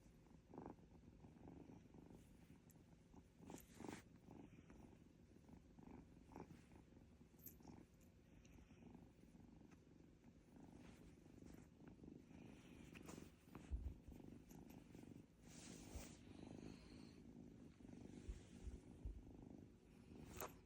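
Ragdoll kitten purring softly and steadily, with a few faint soft thumps.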